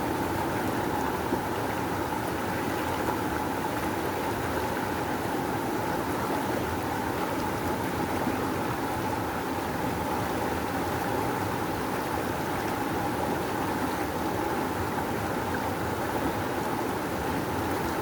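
A rushing river, water flowing fast and strong in a steady, unbroken rush.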